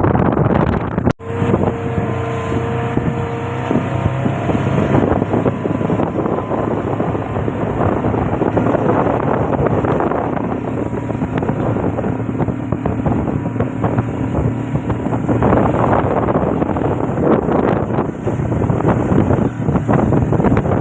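Motorboat engine running steadily with wind buffeting the microphone, with a brief break in the sound about a second in.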